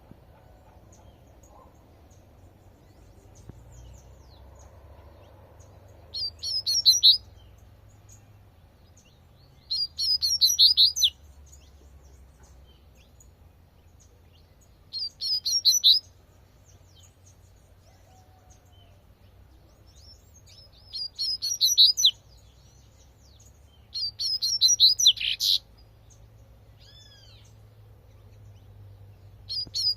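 Double-collared seedeater (coleirinho) singing its tui-tui song: six short phrases of rapid high notes, each about a second long, coming every four to six seconds.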